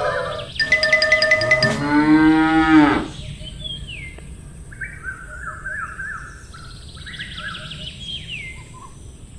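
A cow mooing once, long and falling in pitch at the end, about two seconds in, just after a shorter pitched call. Then quieter bird chirps and short falling whistles over the rest.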